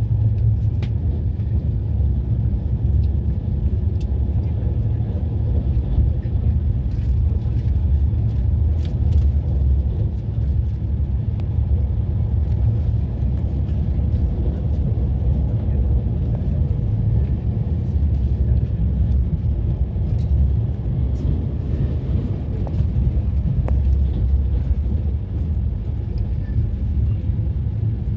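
Steady low rumble of a moving passenger train.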